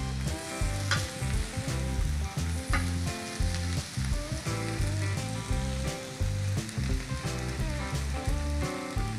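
Halloumi slices sizzling as they fry in a frying pan, with a couple of sharp clicks, over background music with a pulsing bass line.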